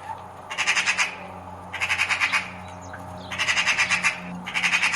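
Magpie chattering: harsh, rapid rattling calls in short bursts of under a second each, repeated about four times.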